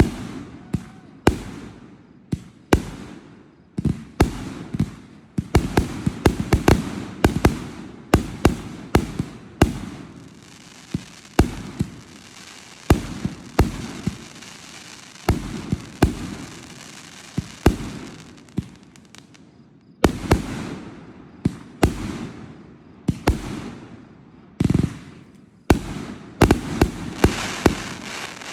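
Aerial fireworks display: a rapid barrage of shell bursts, one sharp bang after another with echoing tails. Near the middle a hissing crackle fills the gaps, and the bangs come thickest near the end.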